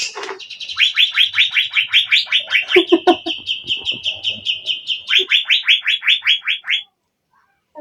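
Asian fairy-bluebird (cucak biru) calling: a long rapid run of rising notes, about five a second, that stops shortly before the end, with a few lower notes mixed in near the middle.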